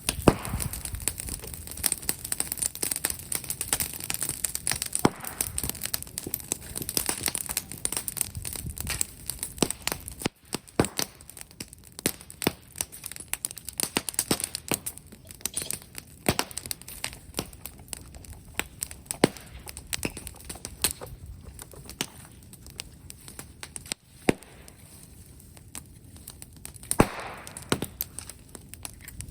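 Bonfire of brush wood and bamboo crackling, with frequent sharp pops and snaps over a steady hiss of flame.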